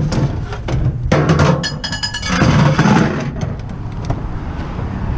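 Knocks and clattering as a discarded microwave oven is handled and worked on to get at its transformer, with a dense burst of rattling about two seconds in. A steady low engine hum runs underneath.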